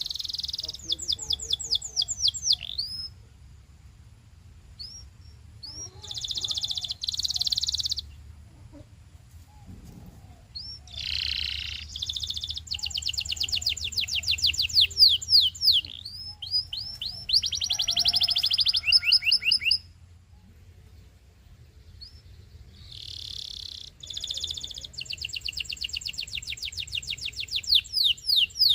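Canary singing: phrases of rapid trills and quick rising sweeps, several bursts separated by short pauses. A faint low hum runs beneath.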